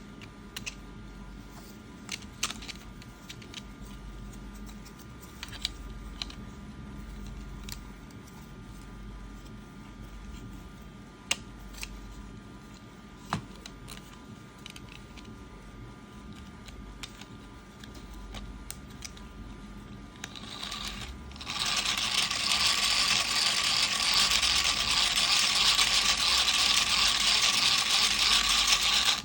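Printed PLA parts of a hand-cranked, battery-free fan clicking and knocking as they are fitted together. About 21 seconds in, a loud, steady whir begins as the fan is spun by hand, and it stops abruptly.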